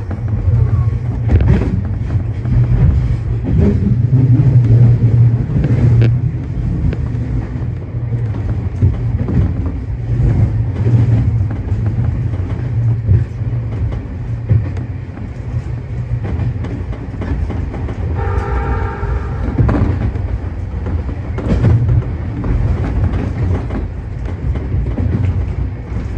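Tobu 30000-series electric train running at speed, heard from inside the car: a steady low rumble with occasional clicks over the rails. A horn sounds for about a second and a half, about two-thirds of the way through.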